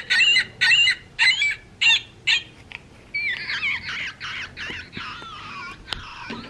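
Recorded California gull calls played from the sound box of a Wild Republic plush bird: about five short, sharp calls, then a longer run of wavering cries.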